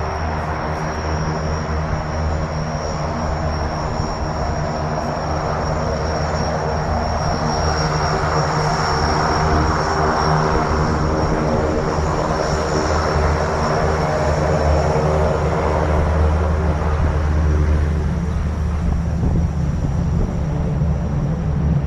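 An engine running steadily with a low hum, a rushing noise swelling and fading over it around the middle.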